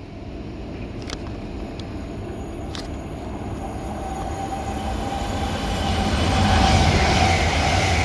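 Avanti West Coast Class 805 Evero train passing through the station, its noise building steadily and loudest near the end, with a steady high hum joining about four seconds in. Three sharp ticks sound in the first three seconds.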